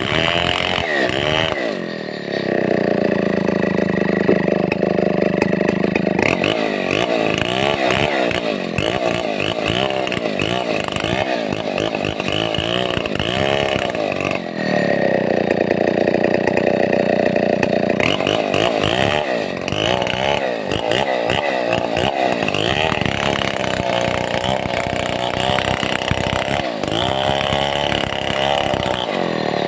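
Two-stroke Stihl 070 chainsaw running at high speed while working timber, its pitch wavering continuously. It twice settles to a lower, steadier speed for a few seconds: once about two seconds in and again around the middle.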